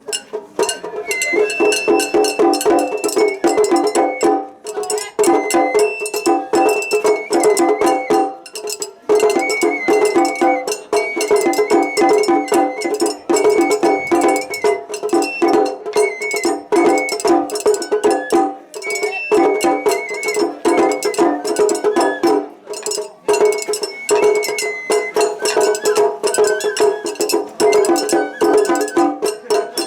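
Japanese festival hayashi music: a high bamboo flute playing a stepping melody over fast, tightly pitched taiko drumming.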